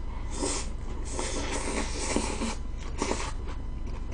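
Close-up chewing of a mouthful of leafy sprout-and-salmon salad, crunchy and wet, coming in a few short spells.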